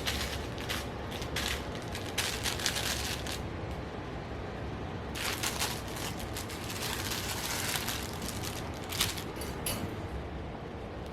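Puppy playing with a toy: bursts of rapid rattling and clicking, a first run lasting about three seconds and a longer one a little after the middle, then a few single sharp clicks near the end.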